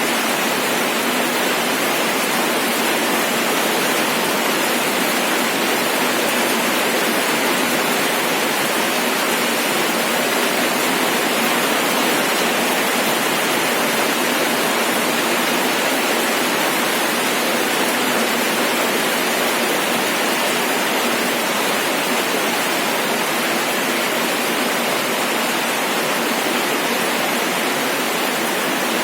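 Rain falling steadily, an even, unbroken hiss that does not change throughout.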